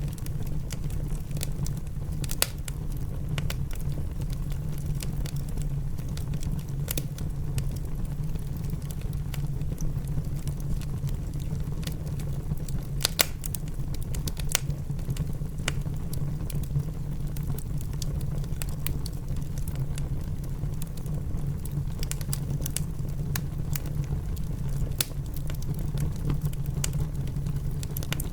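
Wood fire in a fireplace crackling, with scattered sharp pops, over a steady, low rushing sound of rain.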